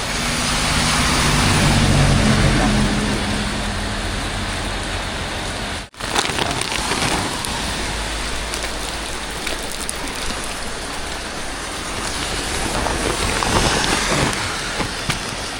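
Steady rain noise. In the first few seconds a motor vehicle's engine hum rises and fades as it passes, and the sound cuts out briefly about six seconds in.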